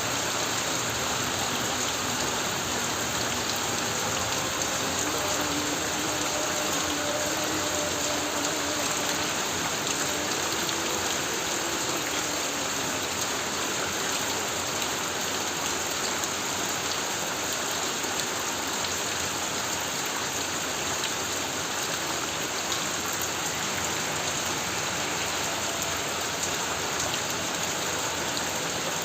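Heavy rain falling steadily on a corrugated tin roof, an even, unbroken hiss.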